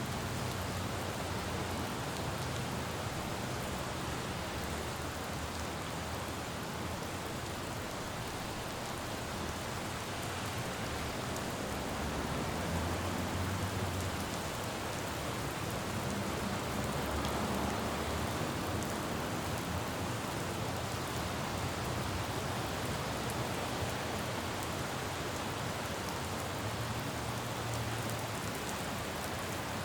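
Steady rain falling on a city road, with a low rumble of passing traffic swelling up a few times.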